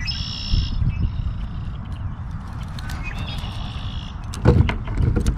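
A bird calling twice, short ringing calls, over a steady low rumble of wind on the microphone, with a couple of sharp knocks near the end while a largemouth bass is unhooked in a plastic kayak.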